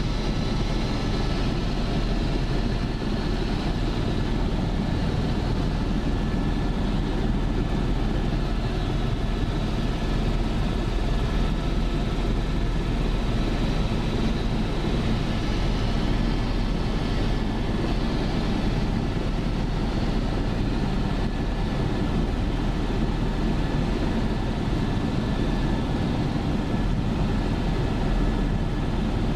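Helicopter in flight: steady engine and rotor noise, an even roar with a few faint steady tones above it.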